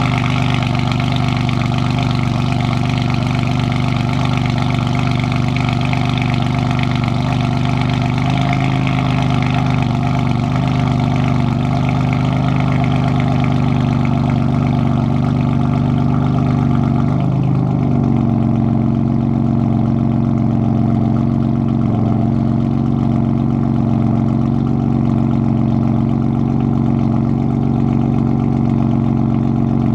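BMW M4 F82's twin-turbo inline-six idling steadily after a cold start, through a custom exhaust with downpipes, secondary cat delete and an X-pipe in place of the resonator. A little over halfway through, the idle drops a step in pitch and settles lower.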